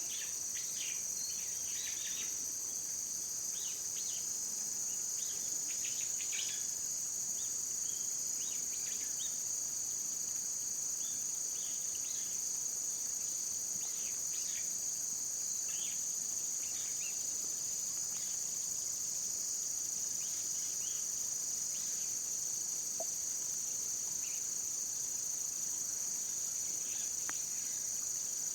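Steady high-pitched chorus of insects such as crickets, with short high chirps scattered through it, most of them in the first half.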